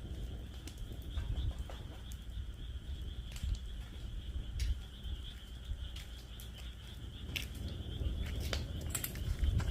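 Wood fire in a fire pit stand crackling, with irregular sharp pops and snaps scattered throughout, the loudest near the end, over a low rumble. Behind it, frogs call in a steady high-pitched chorus.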